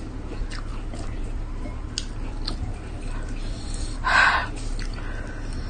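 Close-up mouth sounds of someone eating rice and sambal by hand: chewing with scattered short lip-smacking clicks over a steady low hum, and one short, louder noisy sound about four seconds in.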